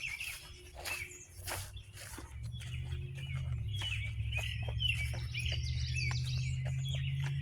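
Wild birds chirping over and over around a swampy trail, with footsteps along the path. A low steady rumble starts about a second in and grows louder.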